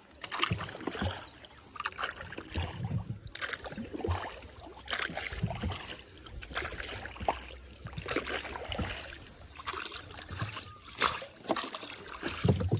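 Small hand-rowed river boat under way: irregular splashes of the paddle in the water and water sloshing, roughly one every second, with low thuds.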